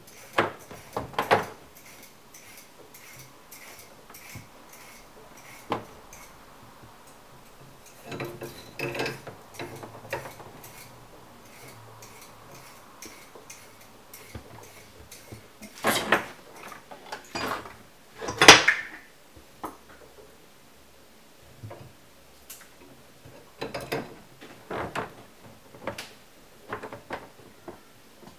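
Irregular metallic clanks and knocks of tools and parts being handled while a dishwasher is being installed, coming in scattered clusters with pauses between; the loudest clank rings briefly.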